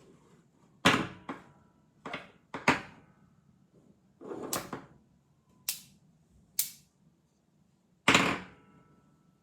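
Magnets snapping together: about nine sharp clicks at irregular intervals, two of them longer and rougher, a few leaving a brief faint ring.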